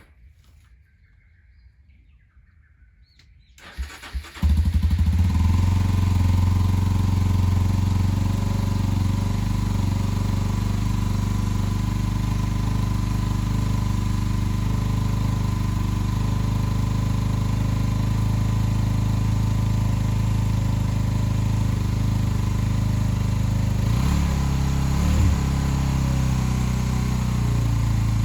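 An engine starts about four seconds in and then runs steadily at idle, with a brief wavering in pitch near the end.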